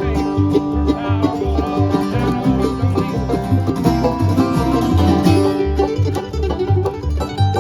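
A band playing an instrumental passage: quick picked string lines over a steady bass beat.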